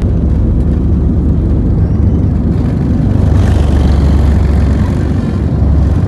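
Steady low rumble and whir of a vehicle in motion, heard from inside the cabin.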